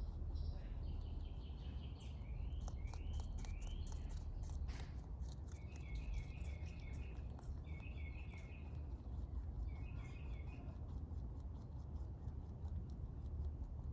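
Rabbit chewing close to the microphone, a fast run of crisp crunching clicks. Small birds chirp in short trills and rising notes in the background.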